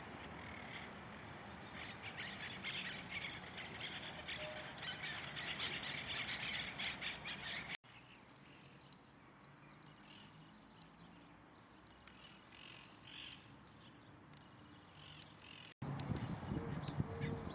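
Birds squawking and chattering, many short calls crowding together. Two abrupt cuts split it into clips: the middle one quieter with scattered calls, the last louder again.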